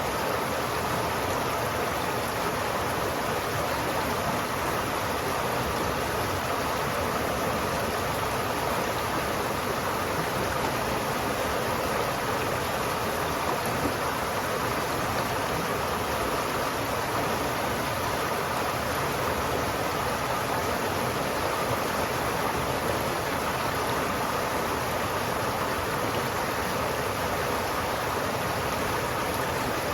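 River water flowing, steady and unbroken.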